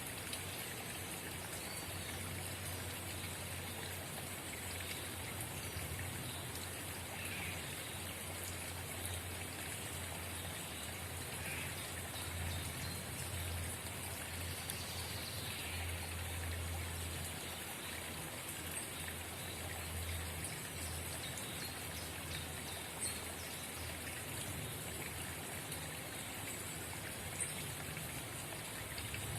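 Small forest spring babbling and trickling steadily.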